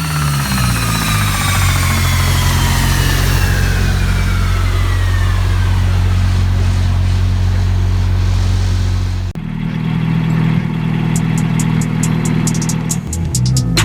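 Turbocharged Nissan KA24DE-T engine in a D21 truck on a chassis dyno, coming off a pull: a high whine falls steadily in pitch over several seconds while the engine runs on at a steady speed. After an abrupt cut about nine seconds in, a steady low drone carries on, with a run of quick ticks near the end.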